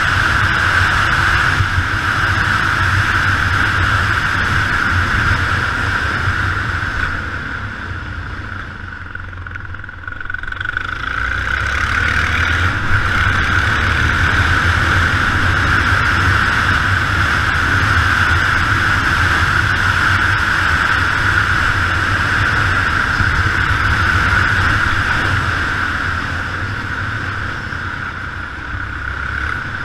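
Yamaha XT 600 single-cylinder motorcycle engine running under way, with wind rushing over the camera. The engine eases off about eight seconds in, picks up again around twelve seconds, and eases once more near the end.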